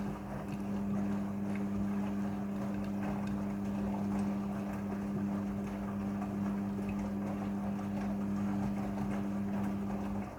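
Midea front-loading washing machine giving a steady electric hum from a pump or valve, with water rushing through it. The hum cuts off abruptly near the end.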